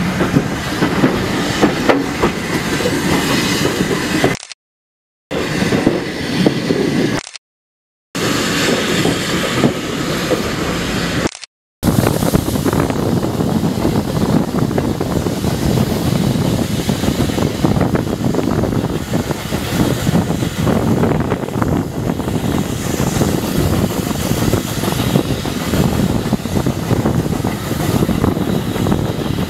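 Moving passenger train heard from an open carriage window: a steady rumble and rattle of the wheels on the track with wind rush. It breaks off for three short silent gaps in the first dozen seconds, then runs on unbroken.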